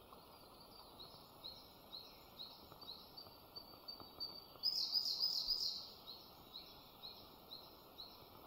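Songbirds in a forest: a short rising note repeated about twice a second, and a louder, quicker burst of notes about five seconds in, over a faint steady background hiss.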